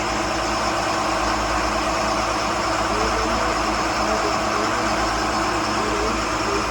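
Twin diesel engines of a Bayliner 4788 motor yacht running steadily, a constant deep drone.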